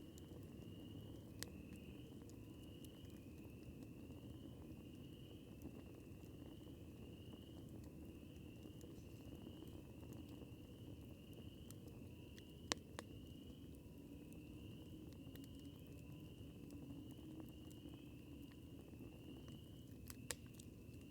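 Campfire burning faintly, with a few sharp crackling pops from the wood, the loudest about halfway through, over a low steady rumble. An insect chirps steadily in an even rhythm, about three chirps every two seconds.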